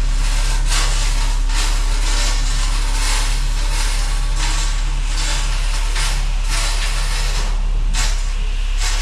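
Diesel engine of a tracked earthmoving machine running steadily under load, with repeated bursts of rattling and scraping noise about once or twice a second.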